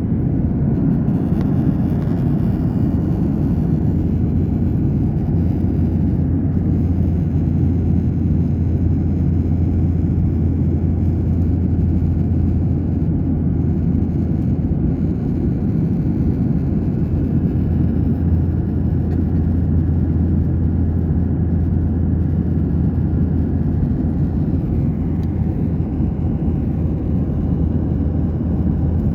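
Steady low rumble of a jet airliner heard from inside the passenger cabin: engine and airflow noise.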